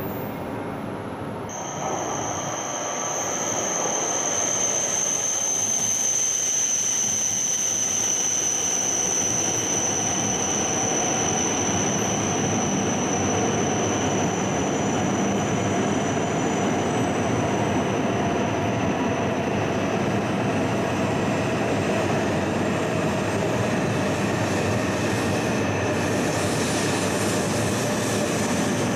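E5-series Shinkansen pulling in along the platform as it slows to stop, a steady rushing sound that swells about two seconds in. Over it runs a high, steady whine, and a lower tone slowly drops in pitch as the train decelerates.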